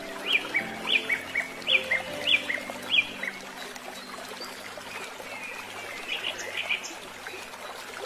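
A small bird calling in short, falling chirps, about two a second for the first three seconds, with a few quieter calls near the end, over a steady hiss of pouring water.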